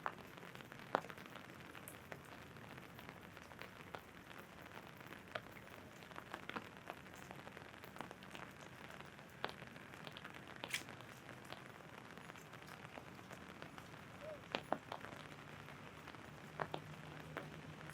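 Steady rain falling on an umbrella, with scattered sharp taps of larger drops striking the canopy. A low steady hum comes in near the end.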